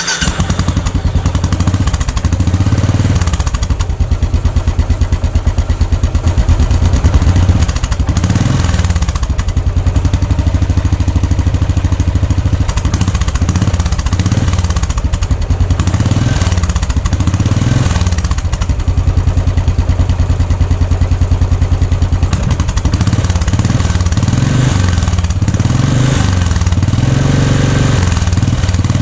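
Royal Enfield Classic 500's single-cylinder four-stroke engine running at idle through its exhaust. It keeps a steady, even thump, and the beat swells a little now and then.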